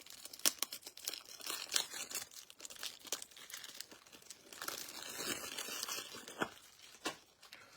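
Crinkling and tearing of plastic packaging as trading-card packs and top loaders are opened, with scattered sharp clicks and crackles of handling.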